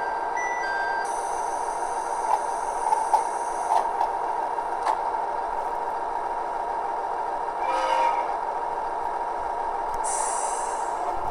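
DCC sound decoder in a KATO HO-scale JR East Kiha 110 diesel railcar model, playing its railcar sounds: a steady diesel hum with a few clicks, a short horn blast about eight seconds in, and a brief hiss near the end.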